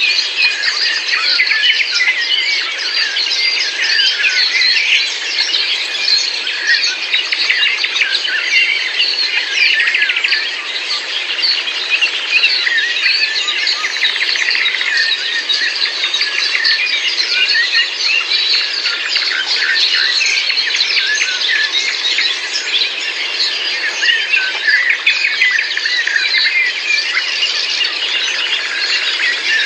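Many songbirds singing and chirping at once, a dense overlapping chorus of short calls and trills.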